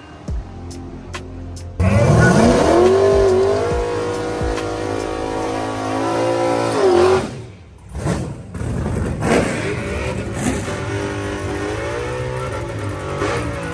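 Drag racing car engine revving hard: it starts suddenly about two seconds in, its pitch climbs steeply and holds high, then drops. After a short lull, the engine is revved again, its pitch rising and falling.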